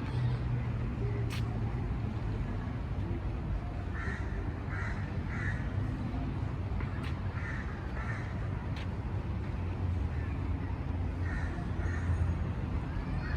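A bird calling in short runs of two or three calls, repeated a few times, over a steady low hum.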